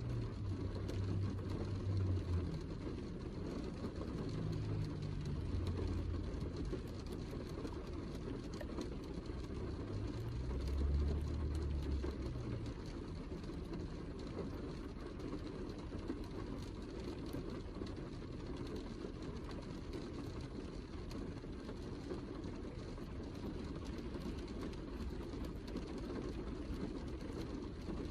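Steady heavy rain: a dense even hiss with many small drop ticks through it. A low rumble swells up three times in the first twelve seconds or so.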